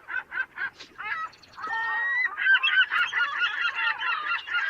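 Recorded bird sounds: birds calling, first as separate quick calls several a second, then a denser run of overlapping calls from about two seconds in.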